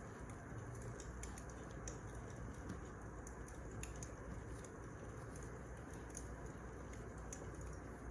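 Wood fire crackling: scattered sharp little pops and snaps over a steady low rumble.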